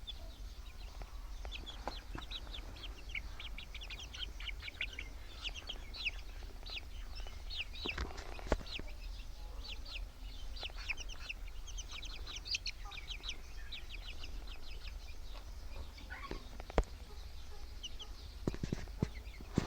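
Young Aseel chicks peeping: many short, high chirps in quick runs, with a few sharp knocks and a low steady hum underneath.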